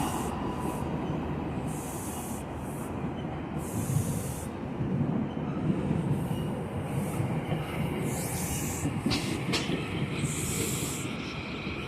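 Train rolling past on the rails, a steady rumble that eases off at the start, with short high hisses from the wheels every second or so and two sharp clicks about nine seconds in.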